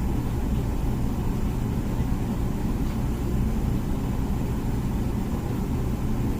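Comfee dishwasher running through its cycle: a steady low machine hum from the wash pump.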